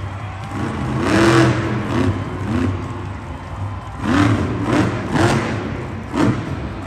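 Monster truck engine revving hard in repeated surges, with loud bursts about a second in and again around four, five and six seconds.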